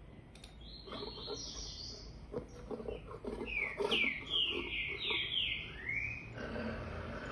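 A bird chirping: quick, high whistled chirps in two runs, the first from about half a second in and the second, louder, from about three and a half seconds to six and a half seconds in.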